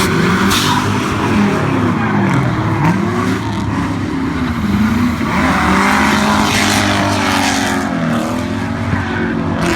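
Car engine revving up and down over and over, its pitch rising and falling in repeated sweeps, as in drifting.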